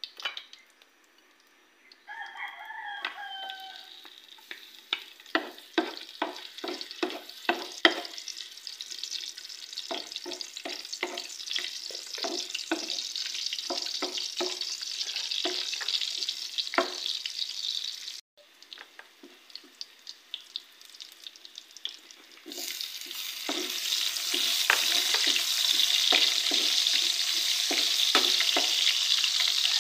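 Garlic frying in hot oil in a wok: a steady sizzle with a utensil clicking and scraping against the pan as it is stirred. A rooster crows briefly about two seconds in. From about three quarters of the way through, the sizzle gets louder as chopped red onion fries in with the garlic.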